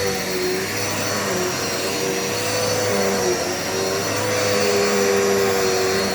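Dirt Devil Multi-Surface corded vacuum cleaner running steadily. Its motor hum shifts slightly in pitch as it is used.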